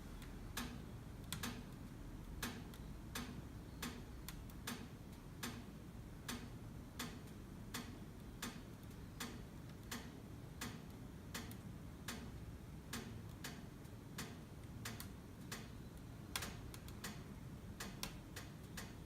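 Wood fire crackling in a Hwam 4620c wood-burning stove: irregular sharp pops, about one or two a second, over a low steady rumble.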